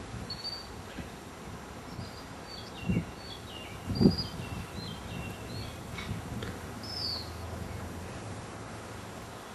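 Songbird chirping: a run of short, quick, falling chirps. Two dull thumps come about three and four seconds in, the second the loudest sound.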